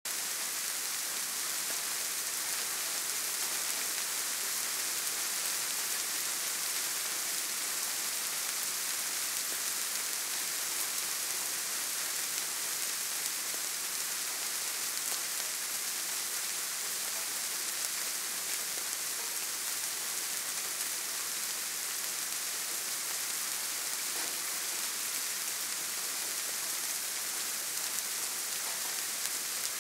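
Soft rain falling steadily: an even, fairly high hiss that stays the same throughout.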